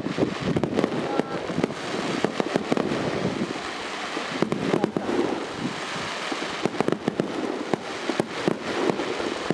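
Fireworks display: many sharp bangs and crackles from bursting shells at irregular intervals, with crowd voices underneath.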